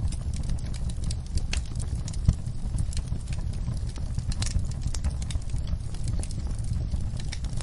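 Wood fire in a fireplace crackling: irregular sharp pops and ticks over a steady low rumble, with one louder pop a little past two seconds in.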